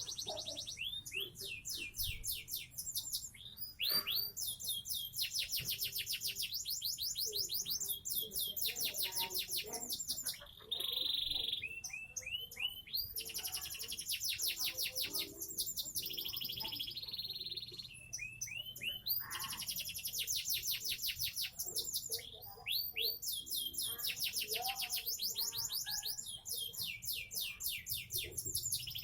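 A seven-month-old canary singing a long, high-pitched song of fast repeated trills and rolling phrases, with a few short breaks between phrases.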